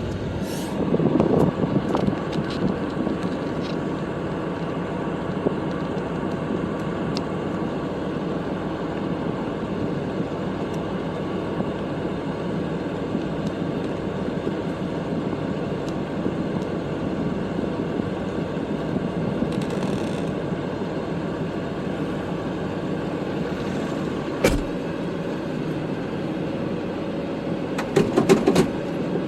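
Kubota tractor's diesel engine running steadily while plowing snow, with a few clunks and knocks: a burst about a second in, a sharp knock a few seconds before the end, and a cluster of clunks near the end.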